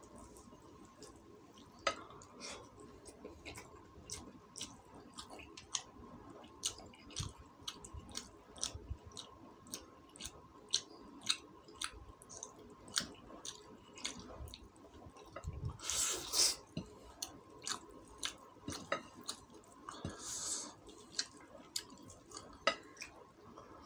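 Close-up mouth sounds of a person eating chicken gizzard and rice: chewing with a long run of short wet clicks and smacks, several a second. Twice in the second half comes a longer hissy sound, like a slurp or a sharp breath.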